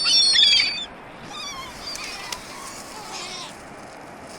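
Gulls crying around a feeding spot: a loud burst of high, overlapping calls in the first second, then fainter scattered calls.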